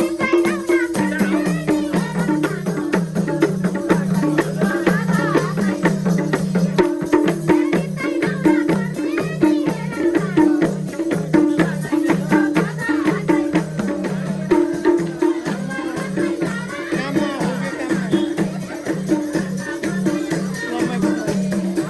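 Nepali dohori folk music: a steady rhythm of short pitched hand-drum strokes with rattling, jingling percussion over it.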